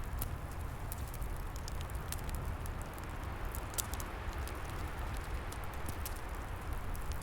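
Wood fire burning, with scattered sharp crackles and pops over a steady low rumble and hiss, and wind in the trees.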